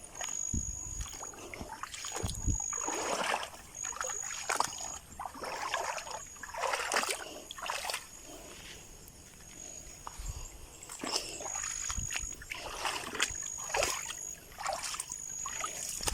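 Irregular splashing and sloshing of shallow water in short bursts. A faint high-pitched tone comes and goes throughout.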